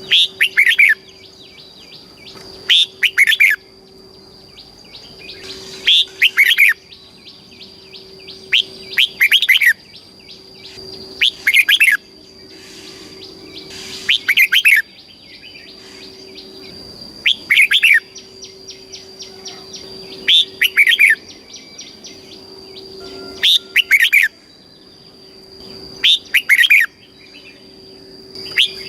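Red-whiskered bulbul singing loud, short, warbled phrases, one about every three seconds. A faint steady high-pitched tone runs under the song.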